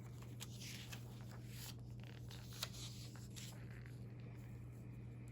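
Faint rustling and light handling of paper pages and clippings in a binder, with a few soft ticks, over a steady low hum.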